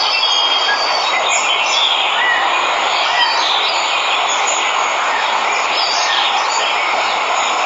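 Steady rushing of a waterfall, with birds chirping and insects calling over it.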